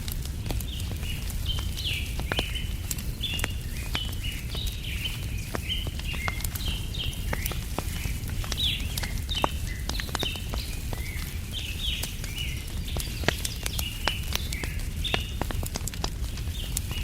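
Wood fire crackling, with frequent sharp pops, over a low steady rumble, while small birds chirp continuously in short repeated calls.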